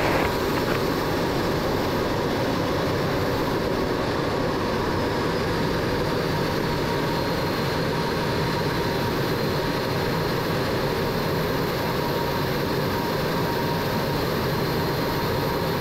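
MiG-17's turbojet engine and airflow in flight, a steady unbroken rush with faint steady whines, heard from inside the cockpit.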